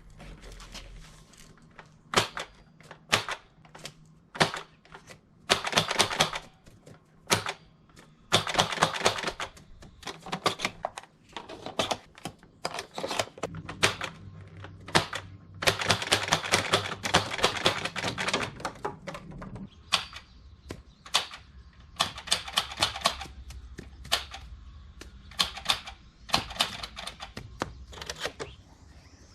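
The mechanism of a non-electronic Nerf 12-round rocket launcher clicking as it is worked and fired: single sharp clacks and runs of rapid ratcheting clicks lasting a second or two, the longest near the middle.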